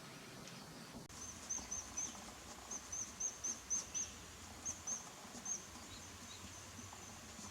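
A small bird calling a quick series of short, high chirps in little groups of two to five, stopping about two seconds before the end.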